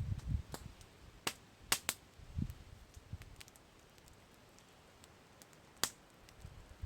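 Wood campfire crackling: sharp pops and snaps at uneven intervals, a cluster in the first two seconds and a single loud pop near the end, with a couple of brief low rumbles.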